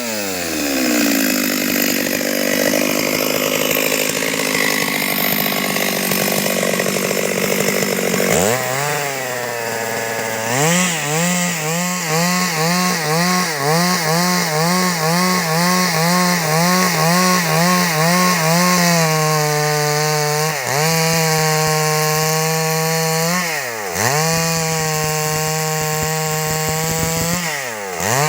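Stihl MS 382 two-stroke chainsaw cutting wood into boards. The engine runs low and labouring under load for the first eight seconds, revs up, surges up and down about twice a second for several seconds, then runs steady at high revs, dipping briefly three times.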